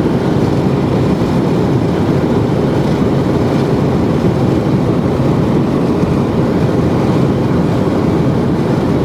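Steady, loud rumble of road and wind noise from a car travelling at highway speed.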